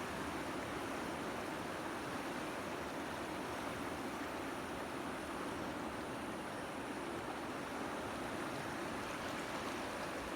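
Steady rushing of a flooded river, the swollen water running fast and loud without a break.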